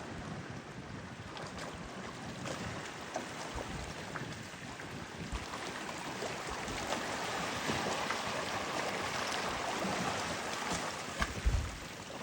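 Ocean water washing against the shore, a steady rushing wash that swells louder in the middle. Near the end come a couple of low bumps of wind on the microphone.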